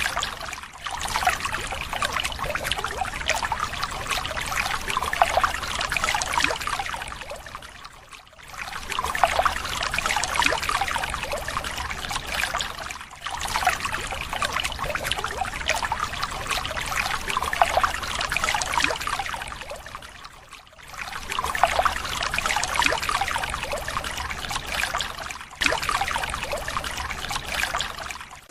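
Water pouring and splashing into a small tank, with a few short breaks where the flow drops away before resuming.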